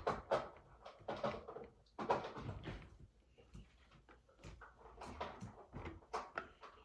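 Plastic Lego pieces being handled and fitted into a Lego ice cream truck, with scattered light clicks and rattles.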